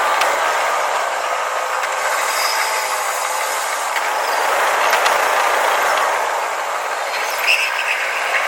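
Running noise of a Tokyu 5050 series 4000 subseries electric train heard from the cab, sped up to double speed, steady with a few faint clicks. A short run of higher-pitched chirps comes near the end.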